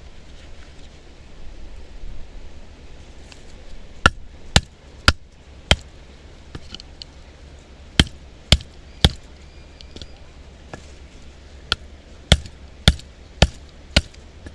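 Batoning firewood: a wooden baton knocks on the spine of a knife driven into a log. The sharp knocks come in runs of four, three and five, about two a second, with pauses between.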